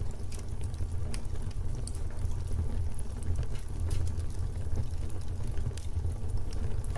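Fireplace ambience: a wood fire crackling with irregular sharp pops over a steady low rumble of the flames.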